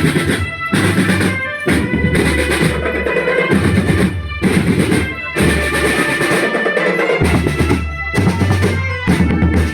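Indonesian school drum band playing: marching snare and bass drums under a melody line, with several short breaks between phrases.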